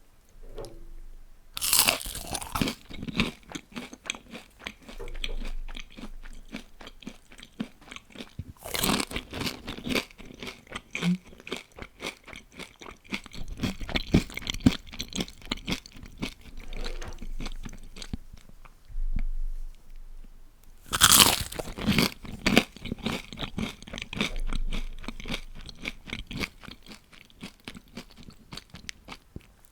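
Close-miked eating of crispy deep-fried food: three loud crunching bites, each followed by a long run of crackly chewing crunches.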